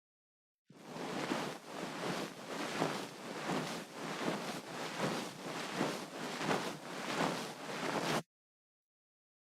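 Ear pick scratching and scraping in an ear, in quick repeated strokes a little over two a second. It starts abruptly less than a second in and cuts off abruptly about eight seconds in.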